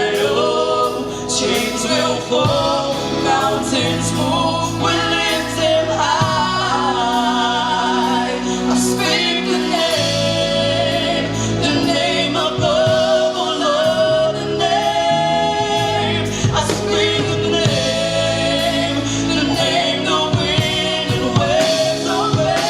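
Gospel worship song performed live: lead singers and a choir holding long, wavering notes over instrumental accompaniment.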